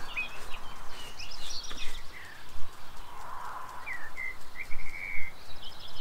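Several songbirds singing and chirping, with short whistled notes throughout and a fast trill about five seconds in.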